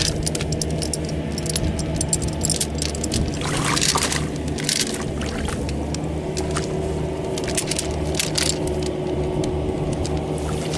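Diesel tractor engine running steadily, with scattered metallic clinks and knocks from work on the driveshaft.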